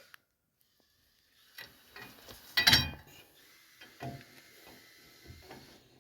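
Metal tools and parts knocking and clinking, with one loudest clatter a little before the middle and softer knocks after it.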